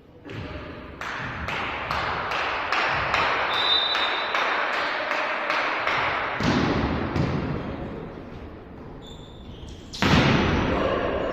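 Fast, even clapping, about four claps a second, over cheering voices, then shouting. About ten seconds in comes one loud, sharp smack of a volleyball being hit.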